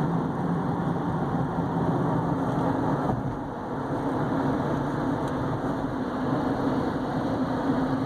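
A 2015 Chevy Equinox's 2.4-liter four-cylinder engine running steadily, heard from inside the cabin as an even hum with a low steady drone. The sound dips briefly about three and a half seconds in.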